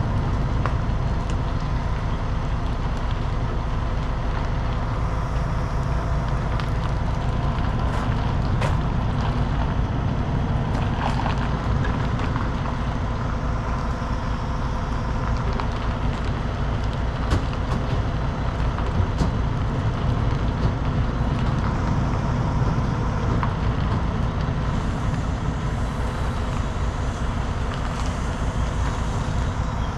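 Heavy diesel truck engine running steadily, with a deep drone and a few faint clicks.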